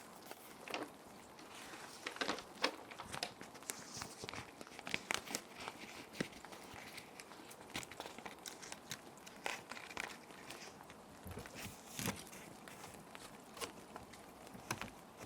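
Plastic sheet protectors crinkling and rustling as paper sheets are slid in and handled: irregular crisp crackles over a steady hiss of background rain.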